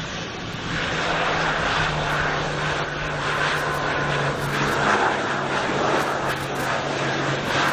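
Aircraft engines running at the airport: a steady, fairly loud engine noise with a low hum, swelling over the first second.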